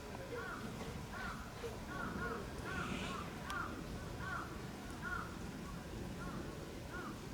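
Meerkats calling: a steady run of short, arched chirps, one or two a second.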